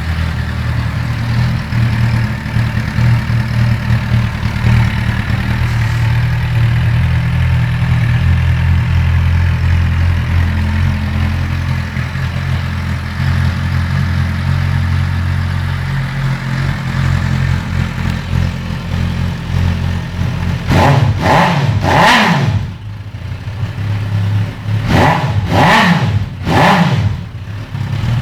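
Suzuki GSX650F's inline-four engine with a short exhaust, idling steadily, then blipped three times in quick succession about twenty seconds in and a few more times near the end, each rev dropping straight back to idle.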